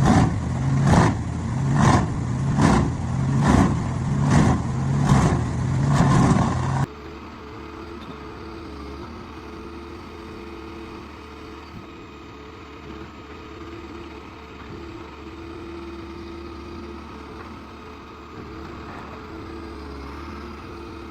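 Vermeer WC2500TX tracked whole-tree chipper chewing through a large tree trunk: loud rhythmic surges about one and a half times a second over its engine. These cut off abruptly about seven seconds in and give way to a steady, much quieter engine hum.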